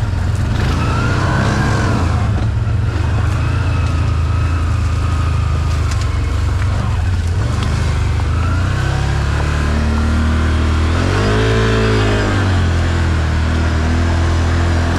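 ATV engine running steadily while riding. Its revs rise and fall about eleven seconds in.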